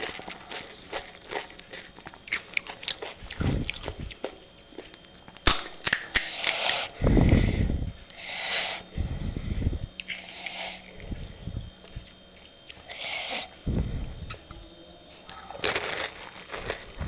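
Close-up eating of pani puri: crisp fried puri shells crunching and being chewed, with many small crackles and several louder, longer bursts of mouth noise.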